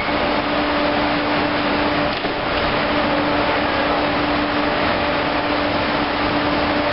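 Amtrak Acela Express trainset standing at the platform, its onboard ventilation and cooling equipment giving a steady hum with a steady low drone, and a faint knock about two seconds in.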